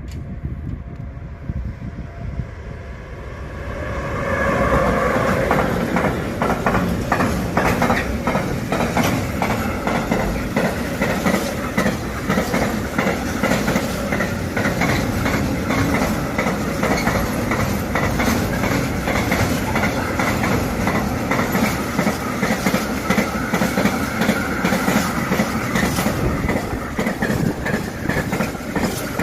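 Freight train passing close by. It grows louder about four seconds in, then the wagons' wheels run by in a steady clickety-clack.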